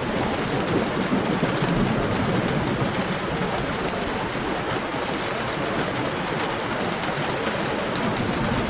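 Heavy rain falling steadily, a dense hiss with fine drop ticks. A low rumble dies away in the first couple of seconds.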